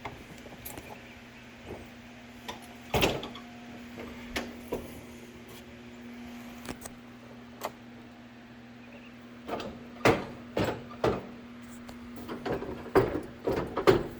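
Scattered clicks, clunks and rattles of hands working on a zero-turn mower, heaviest near the end, over a steady low hum.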